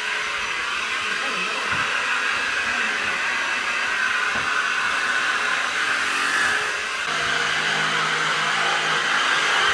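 Dirt Devil 3-in-1 Cordless Reach Max Plus stick vacuum running with a steady high whir while giving almost no suction. About seven seconds in the sound dips briefly and a low hum joins it.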